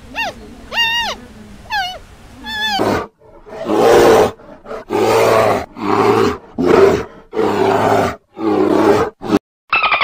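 A few short, high-pitched calls that rise and fall, taken for a giant panda's calls. From about three seconds in, brown bears growl loudly, about seven rough growls in quick succession with short gaps between them.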